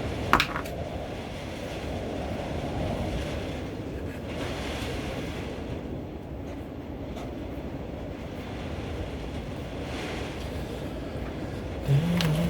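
Wind gusting outside, a steady low rushing rumble that swells and eases. There are two short clicks at the start, and a low steady drone sets in near the end.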